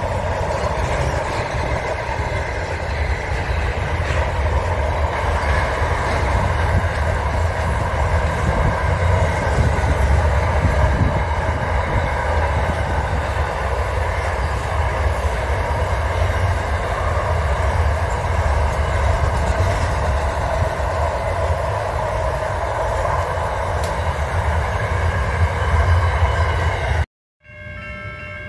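Container wagons of a long intermodal freight train rolling past on the rails in a steady, continuous rumble. About 27 seconds in it cuts off abruptly and gives way to a quieter sound with steady tones.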